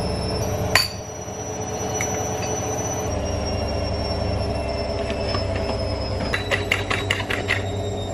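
A small electric motor running with a steady whine and hum that shifts pitch twice, with a sharp click about a second in and a run of light taps from about six seconds in.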